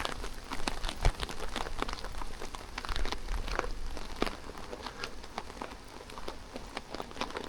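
Rain falling, with many close raindrops ticking sharply at irregular moments over a steady patter.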